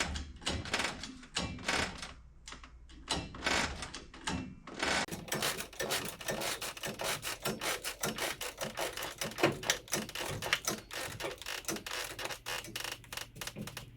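Scattered knocks and rubbing from the engine-hoist rigging, then from about five seconds in a fast, even run of sharp mechanical clicks, several a second, as the hoist and its straps are worked to take up the load.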